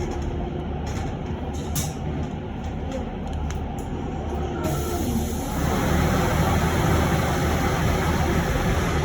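Interior noise of an electric bus: a steady low hum with a couple of sharp clicks early on. About halfway, a louder rushing noise sets in and continues.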